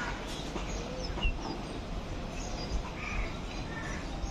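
A few short bird chirps over a steady low city hum.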